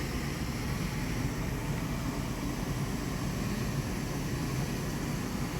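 Steady low machinery hum and air-handling noise inside a cargo ship's accommodation.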